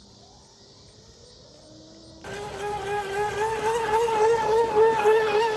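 Battery-powered RC speedboat motor whining at speed. It is faint for the first two seconds, then abruptly much louder, a steady high whine whose pitch wobbles slightly.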